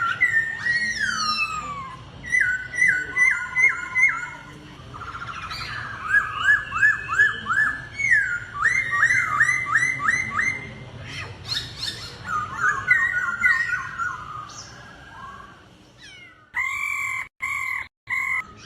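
Laughingthrush (khướu) contest song: phrases of rapid, repeated, slurred whistled notes, about five a second, broken by short pauses. Near the end there is a clipped stretch of sustained two-pitch notes that cuts out abruptly twice.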